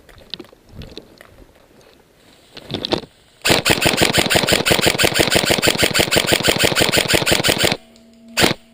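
Airsoft electric gun (AEG) firing on full auto in one sustained burst of about four seconds, roughly ten shots a second, then a single shot near the end.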